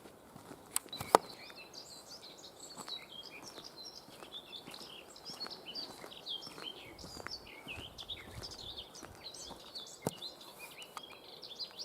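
Songbirds singing, a busy run of quick, short chirping notes. There are two sharp clicks about a second in and another near the end.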